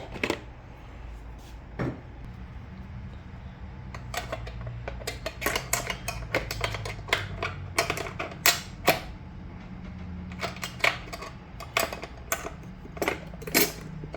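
Irregular sharp clicks and light knocks, several a second, beginning about four seconds in, over a low steady hum.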